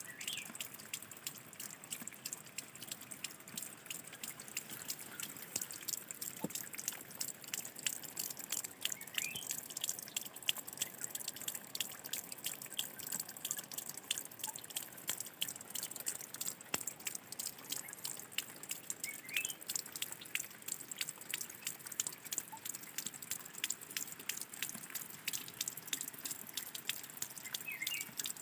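Spring water trickling and dripping in a small cascade, a dense patter of droplets. A bird gives a short call every nine or ten seconds.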